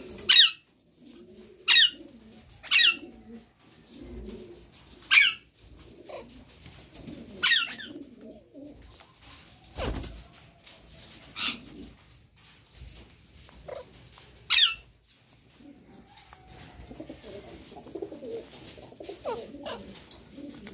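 Alexandrine parakeet giving short, sharp, downward-sweeping screeches, about seven of them at irregular gaps, over a low, soft cooing.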